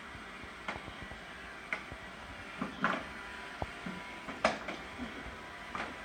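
Roomba robot vacuum running with a steady whirring hum, with about five short sharp knocks or clatters over it.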